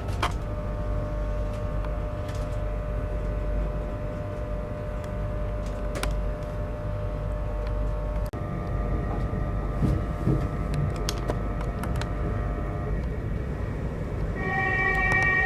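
Train standing or running slowly, its power equipment giving a steady low rumble with several steady humming tones; the sound changes abruptly about eight seconds in, and a short, high chord-like tone sounds near the end.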